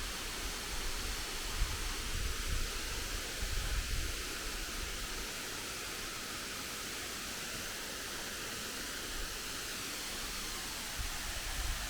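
Steady rushing hiss of a waterfall, with low wind buffeting on the microphone in gusts during the first few seconds and again near the end.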